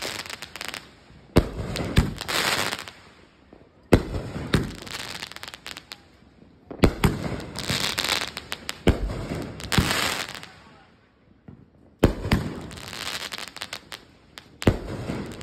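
Roman candle fireworks firing: a string of sharp pops, each followed by a second or two of hissing crackle, coming in volleys with brief lulls between them.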